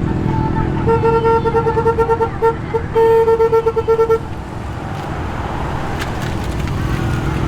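A car horn sounding in a rapid string of short toots for about three seconds, with one longer blast in the middle, over the low rumble of car engines.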